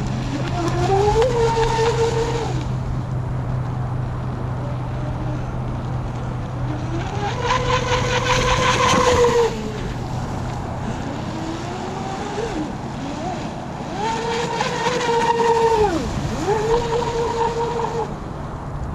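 Battery-powered RC drag boat's motor whining up to full speed, holding a steady high pitch, then winding down, four times in a row, with a hiss of water spray on the two loudest runs.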